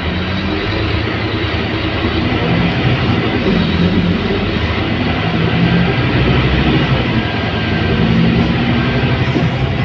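Scania K280UB city bus's diesel engine running under way, its low drone shifting in pitch, over steady road and body noise.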